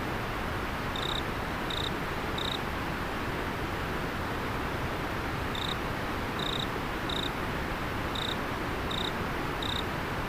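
Steady rush of river water with a cricket chirping over it in short high notes. There are three chirps about a second in, then six more, less than a second apart, in the second half.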